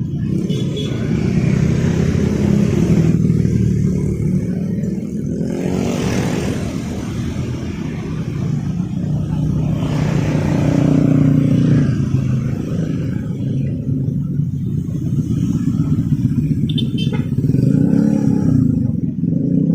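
Street traffic: cars and motorcycles passing one after another over a steady engine hum, with louder pass-bys about six seconds in and again around ten to twelve seconds.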